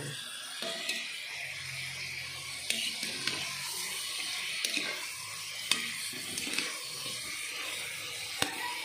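Chicken pieces sizzling in a pot as they sauté and brown, a steady hiss. Several sharp clicks of the spatula knocking and scraping against the pot as they are stirred.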